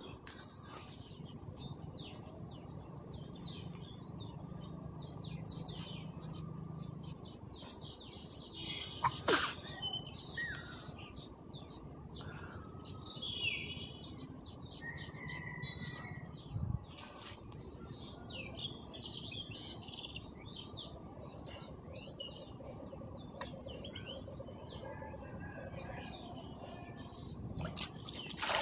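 Small birds chirping and calling on and off over a steady low background noise, with one sharp click about a third of the way through.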